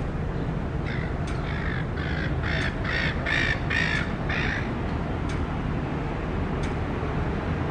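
Silver gull giving a run of about eight harsh calls that build to their loudest in the middle and then fade, over a steady urban traffic hum.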